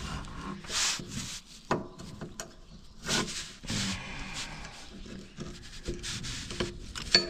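Metal paint scraper scraping caked grime off a Toro TimeCutter mower in short, irregular strokes, with a sharp clink near the end.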